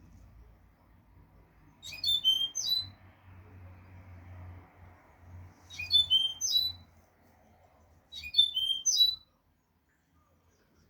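European goldfinch song: three short, quick phrases of high, twittering notes, about four seconds apart, the learned 'note' a breeder uses to tutor young goldfinches.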